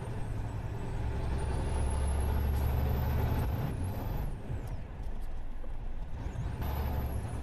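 Motor vehicle driving: a steady low engine and road rumble, with a faint high whine above it.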